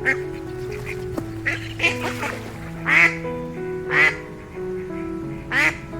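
Background music with a string of short, sharp animal calls over it, about six in all, the loudest about three and four seconds in.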